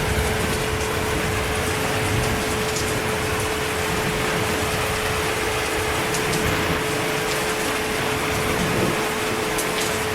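Steady heavy rain falling, an even rushing hiss, with a thin steady hum under it.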